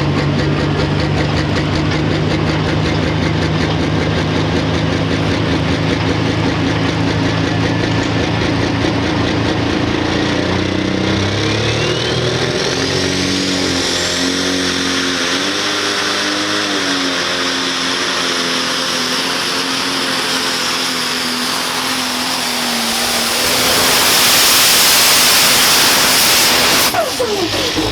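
Dual-fuel super stock pulling tractor's diesel engine running steadily, then pulling under load: the engine pitch wavers and a turbocharger whine rises sharply. It builds to a loud rushing roar near the end, which drops off suddenly.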